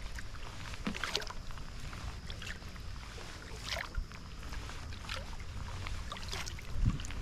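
Kayak paddle blades dipping and splashing in the river water, about one stroke a second, over a low wind rumble on the microphone. A dull thump comes near the end.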